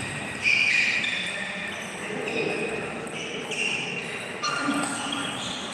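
Table tennis play in a sports hall: ball and bat knocks, with short high squeaks of players' shoes on the floor coming every half second or so.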